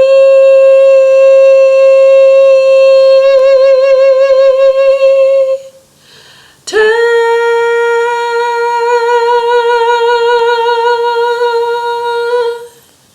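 A solo voice, unaccompanied, holding two long notes that close the song, each about six seconds with a brief breath between; the second is slightly lower, and vibrato grows as each note is held.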